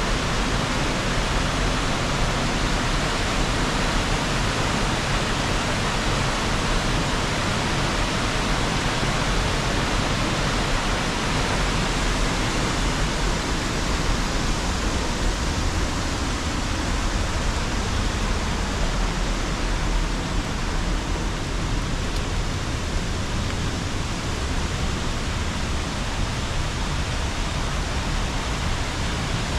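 Waterfall and river water rushing, a steady, unbroken roar of falling water.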